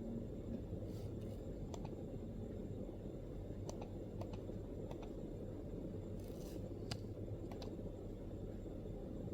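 MacBook keyboard keys pressed slowly and irregularly, about ten separate soft clicks with pauses between them, over a steady low background rumble.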